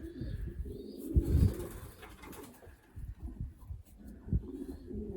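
Racing pigeons cooing in low, repeated phrases, with a few soft knocks.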